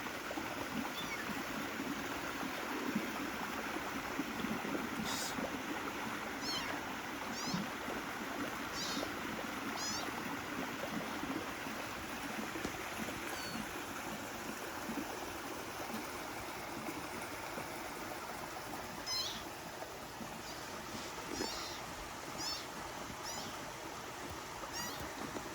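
Kittens mewing in short, high, scattered calls over a steady rushing background noise.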